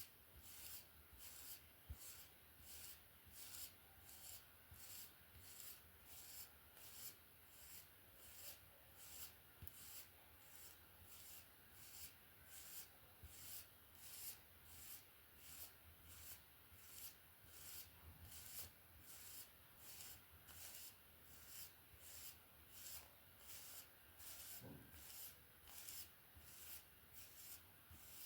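Hair being brushed with a hairbrush in quiet, even strokes, about two a second.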